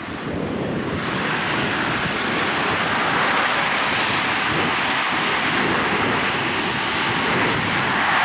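A passing passenger train: a loud, steady rushing noise that swells about a second in and holds.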